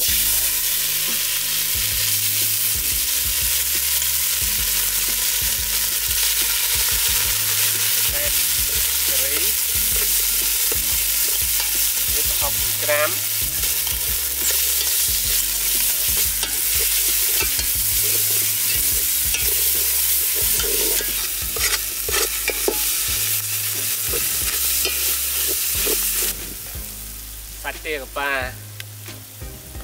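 Curry paste and chopped prahok sizzling in hot oil in an aluminium pot, with a metal spoon clicking and scraping against the pot and plate. The sizzling falls away abruptly a few seconds before the end.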